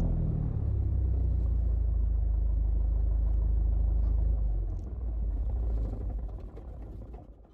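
Mooney M20J's four-cylinder Lycoming engine winding down at shutdown: a low rumble that fades away from about four and a half seconds in until it dies out near the end.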